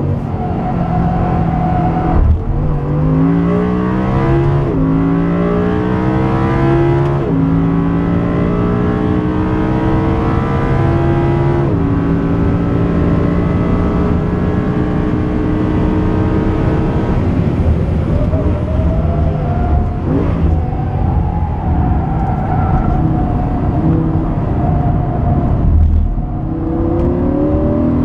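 Audi R8 V10 Plus's 5.2-litre V10 driven hard, its pitch climbing through the gears with quick upshifts every few seconds, then holding steady. Later it eases off and drops back, then climbs again near the end.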